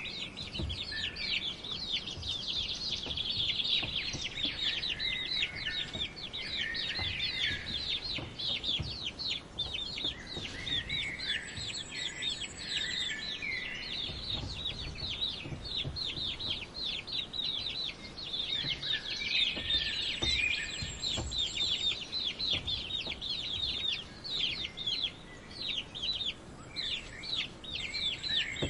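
A brood of chicks peeping rapidly and continuously, many high, short, falling peeps a second, with a few lower calls from adult chickens now and then.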